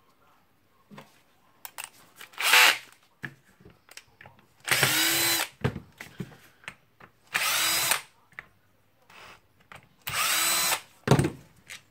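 Powered screwdriver running in three short bursts, each under a second, backing out the three screws that hold a rotary hammer's back cover. A brief blip comes before them, and small clicks fall between, with a sharper click near the end.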